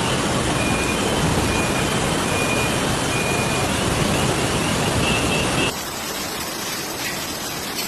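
Steady rushing of a heavy downpour with traffic on a flooded street, dropping abruptly to a quieter rush about six seconds in.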